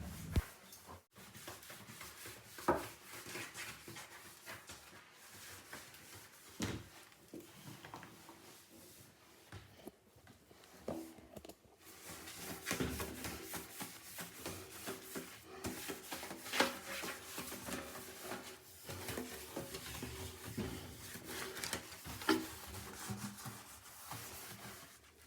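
Faint scrubbing by hand on bathroom surfaces, an irregular rubbing in a small room, with a few short knocks scattered through.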